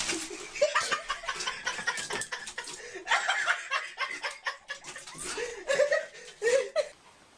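A person laughing in repeated choppy bursts, cutting off abruptly near the end.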